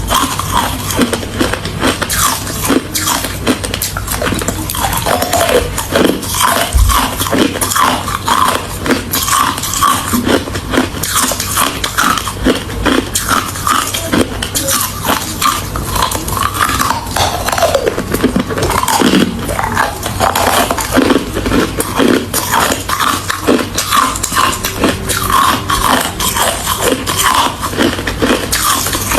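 A person biting and chewing ice close to the microphone: a dense, continuous run of sharp, irregular crunches.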